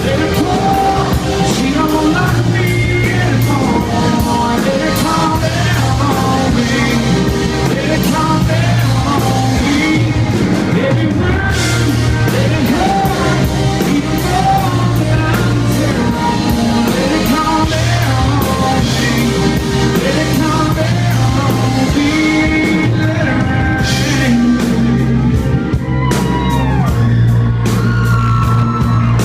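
Live country-rock band playing at concert volume, with a drum kit, guitars and bass under gliding sung or guitar melody lines.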